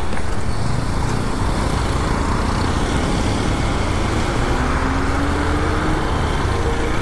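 Motorcycle riding at speed: a steady rush of wind and engine and road noise with a heavy low rumble. A faint tone slowly rises in pitch about halfway through.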